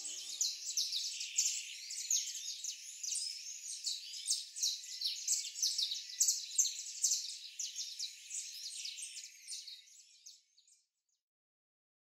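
Many small birds chirping and singing together in a dense chorus that fades out about ten seconds in. The tail of a music track dies away in the first second.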